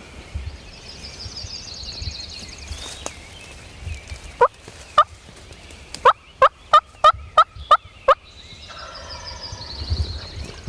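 Turkey yelping: two single yelps, then a quick run of about seven yelps, roughly three to four a second. A songbird trills in the background near the start and again near the end.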